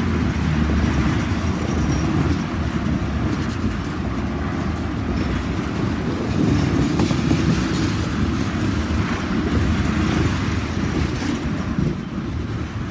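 Long freight train's cars rolling past, a steady low rumble of wheels on rail.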